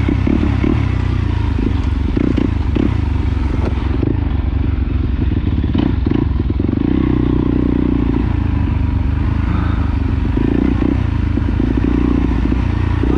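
Trail dirt bike engine running steadily, with scattered clattering and scraping.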